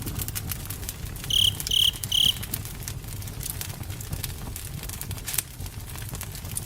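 Campfire crackling, with scattered sharp pops over a low rumble of burning. About a second in, three short high chirps ring out in quick succession, as from a cricket.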